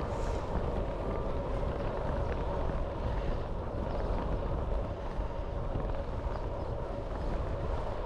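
Wind rushing over an action camera's microphone while riding a road bike, a steady rumble with the tyres humming on the tarmac.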